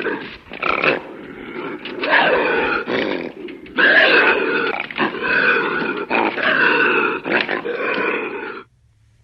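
An animal making a string of loud, drawn-out calls that cut off abruptly near the end.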